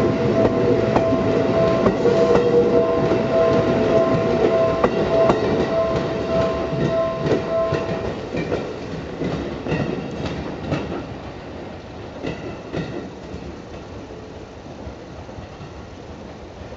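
Railway cars rolling slowly over rail joints and points, clicking and clacking, with a steady high tone through the first half. The sound fades as the train moves away.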